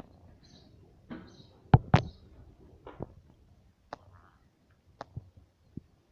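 A pet parrot's faint high chirps and a series of sharp taps and knocks, about seven spread unevenly, the loudest two a quarter second apart about two seconds in.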